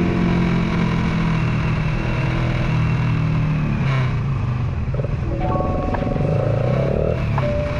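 Suzuki Raider 150 Fi motorcycle engine running steadily under way, its pitch shifting a few times.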